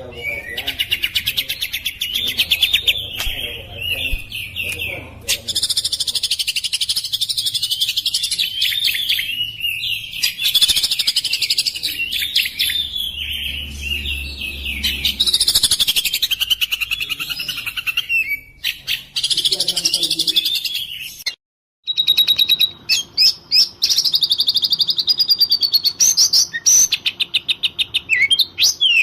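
Oriental magpie-robin (kacer) in agitated, aggressive 'emosi' song: loud, continuous high chirps, whistled phrases and fast rattling trills. It cuts out abruptly for a moment about two-thirds of the way through, then resumes.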